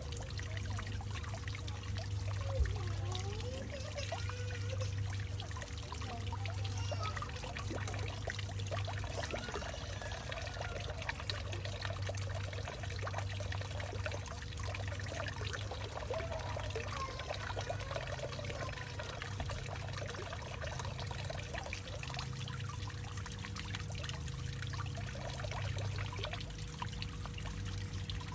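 Water trickling and dribbling into a hollowed-out tree, full of small drips and short pitched gurgles over a steady low hum.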